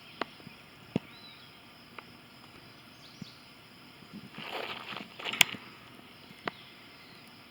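Irregular footsteps crunching on gravel: a few sharp single steps spaced about a second apart, then a short run of crunching about four seconds in, ending in a loud crunch. Faint bird chirps sound in the background.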